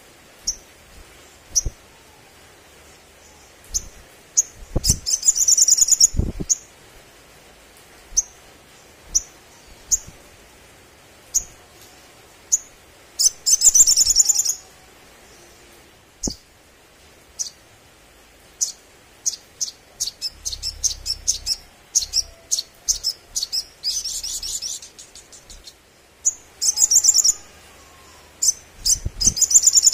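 Sunbird calling: a string of sharp, high single chirps broken by several fast rattling trills of about a second each. A few low thumps sound under the calls.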